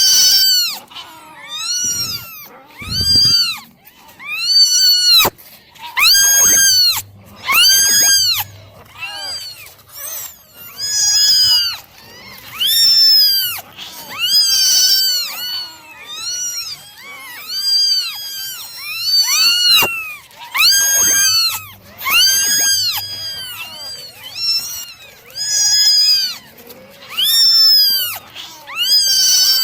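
A litter of kittens meowing over and over, high-pitched calls that rise and fall, about one every second or two, some overlapping.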